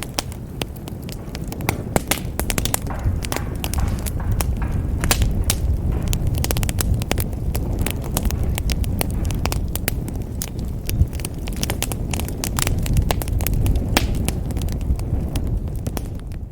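Wood fire crackling in a fireplace: many sharp, irregular pops and snaps over a steady low rumble of the burning logs.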